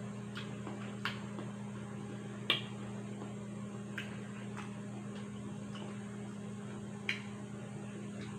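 Close-up mouth sounds of a person chewing soft melon flesh: about half a dozen sharp, wet mouth clicks at irregular intervals, the loudest about two and a half seconds in, over a steady low hum.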